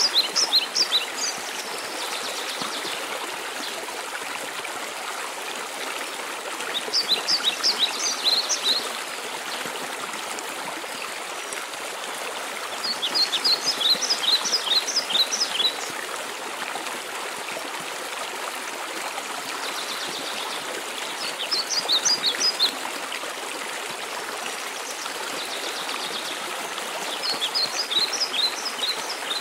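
Steady rushing water of a mountain waterfall, with a songbird singing a short phrase of quick, high chirping notes about every six seconds, five times over.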